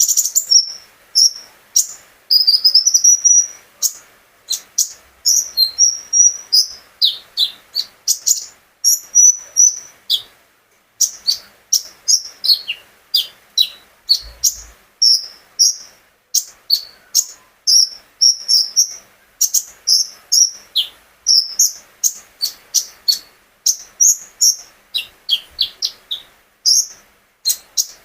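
A caged konin songbird singing in full voice: rapid, sharp, high chirps and short falling and rising whistled notes, several a second, in phrases broken by brief pauses. This vigorous song is the kind used as a lure to spur other cage birds into singing.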